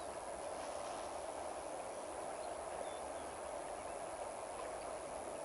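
Steady, even rushing of a river, with a few faint high bird chirps about three seconds in.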